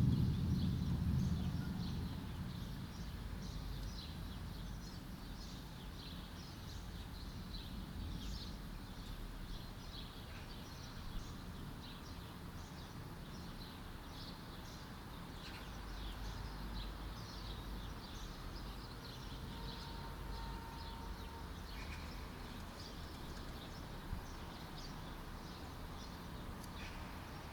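A thunder rumble dies away over the first couple of seconds. Then many small birds chirp over a low, steady background rumble, with the next thunder beginning to build near the end.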